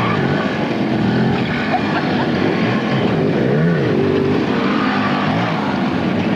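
Several motorcycle engines revving, their pitches rising and falling over one another.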